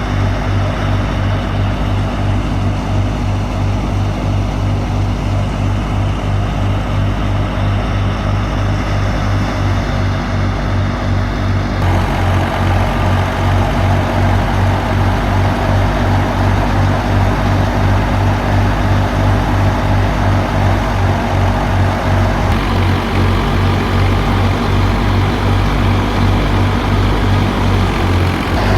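Al-Ghazi tractor's diesel engine running steadily with an even low throb, powering a wheat thresher. The thresher's noise grows louder about 12 seconds in.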